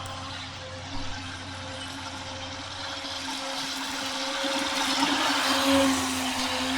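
Radio-controlled boat's electric motor running with a steady whine over a rushing hiss, growing louder toward five to six seconds in; a brief knock about a second in.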